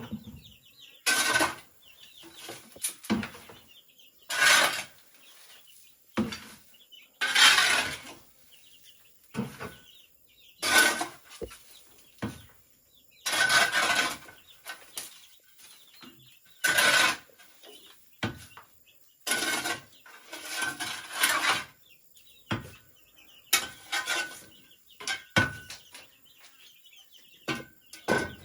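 Bamboo being worked with a metal hand tool: a series of sharp strokes every two to three seconds, several with a brief ringing tone.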